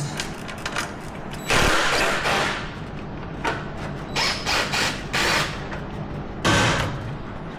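Power tool run in short bursts, three main runs with shorter ones between, as fasteners are loosened on the quad, with small clicks of parts and tools being handled.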